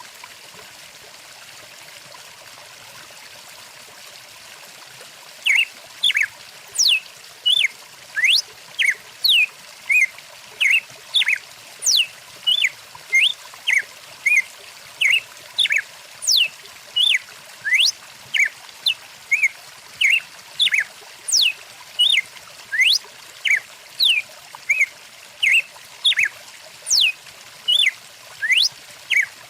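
Steady rush of a stream. From about five seconds in, a bird calls over and over above it: short chirps and quick sweeping whistles, roughly one or two each second.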